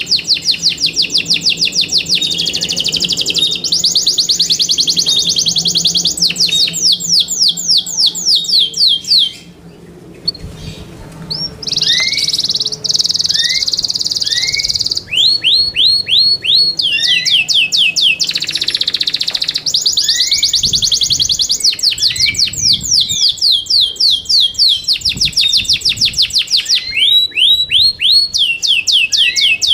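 Yorkshire canary singing a long song of fast rolling trills with a few long buzzy notes. The song breaks off briefly about a third of the way in, then goes on.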